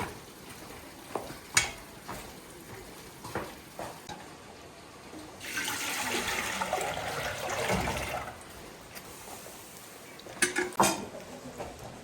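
Kitchen sounds: a few sharp clinks of dishes and utensils, with water running for about two and a half seconds midway, then another quick cluster of clinks near the end.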